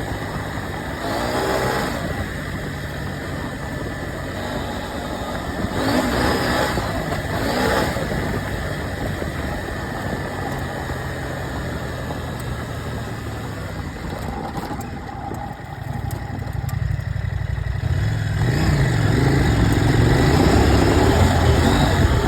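KTM 790 Adventure's parallel-twin engine under way, its revs rising and falling several times over a steady rush of wind and road noise. It grows louder over the last few seconds.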